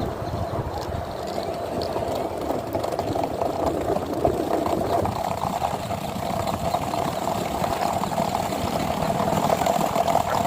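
Longboard wheels rolling over pavement: a steady rumbling roll with a constant hum, with no sharp pushes or knocks standing out.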